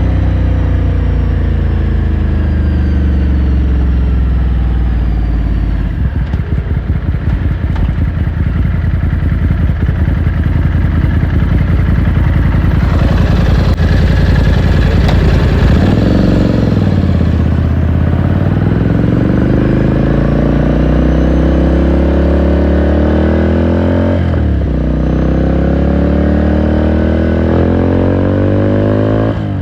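Ducati Scrambler Sixty2's 399 cc air-cooled L-twin under way, heard onboard. The engine note sinks slowly, then drops to a low, lumpy beat for several seconds. It then pulls up through the gears, its pitch climbing and falling back sharply at each upshift, about halfway in, about four-fifths in and again right at the end.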